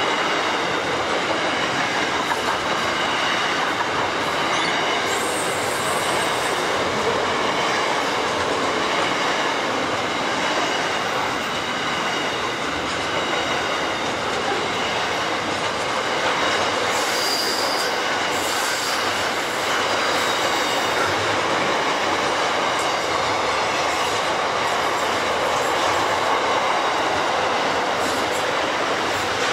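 Container wagons of a long intermodal freight train rolling past close by, a steady loud rumble of steel wheels on rail with thin wheel squeal over it. A brief, higher squeal rises about seventeen seconds in.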